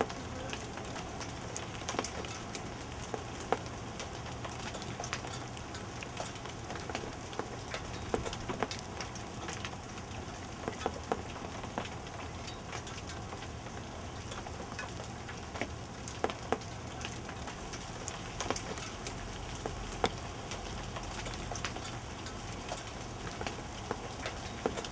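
Steady rain falling and dripping onto hail-covered surfaces, with scattered sharp ticks of drops landing.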